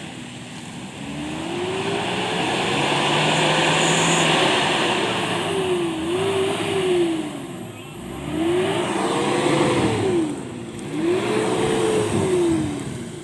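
A vehicle engine revving hard and easing off repeatedly: the revs climb and drop back in four surges, with a longer, higher surge first and shorter ones after.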